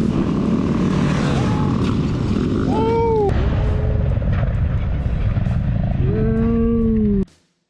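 Motorcycle engines running together in a group ride, a dense steady rumble. Two brief pitched sounds rise and fall over it, one about three seconds in and a longer one about six seconds in. The sound cuts off suddenly near the end.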